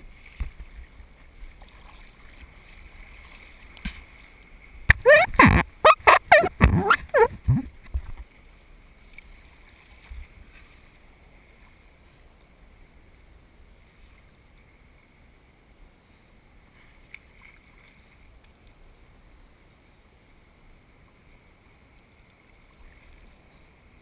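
Water dashing over the kayak-mounted camera's microphone in the surf: a loud, jagged splashing and gurgling for about three seconds starting about five seconds in, then a faint steady hiss.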